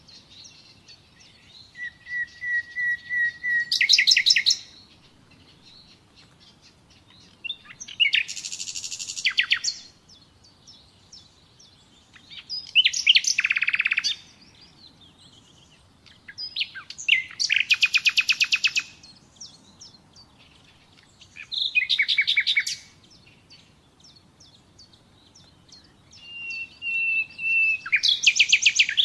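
Common nightingale singing in six separate phrases a few seconds apart, each a run of repeated whistled notes or fast rattling trills. The first phrase is a series of steady whistles growing louder, ending in a rapid trill.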